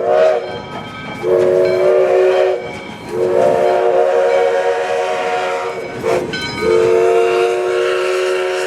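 Multi-note chime whistle of 4-6-2 steam locomotive No. 148 blowing a series of blasts: long, long, a short toot, then long. That is the pattern of the standard grade-crossing signal. Each blast slides up slightly in pitch as it opens.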